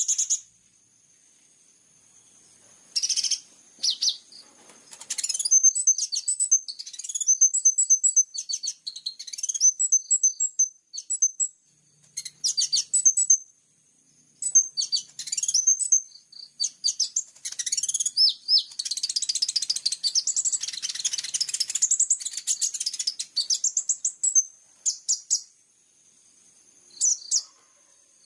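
Kolibri ninja (konin) sunbird singing rapid, high chirping phrases in bursts with short pauses between them, a run of varied mimicked song ('isian').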